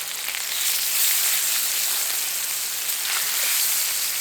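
Brook trout frying in sunflower oil: a steady sizzle that grows a little louder about a second in.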